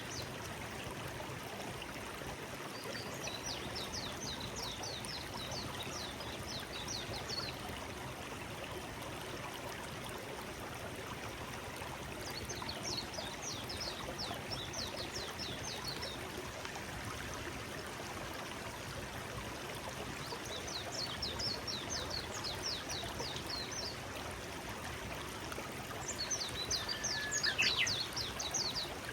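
Forest stream flowing steadily. A songbird sings four bouts of rapid, repeated high notes over it, each bout lasting a few seconds.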